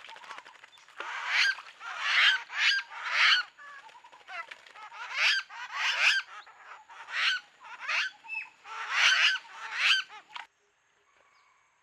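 Lesser necklaced laughingthrushes calling at a pool: a run of about a dozen short calls in uneven bursts, which stops abruptly about ten seconds in.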